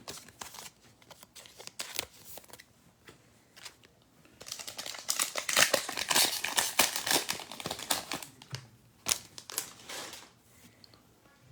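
Foil trading card pack wrapper crinkling as it is torn open, with light clicks and rustles of the cards being handled. The crinkling is densest in the middle, for about four seconds.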